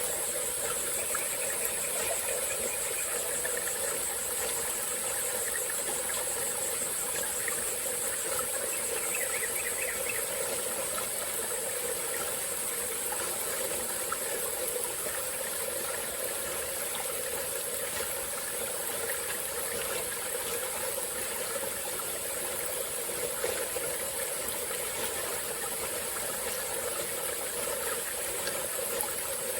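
Small forest stream flowing and trickling steadily, under a continuous high-pitched insect chorus.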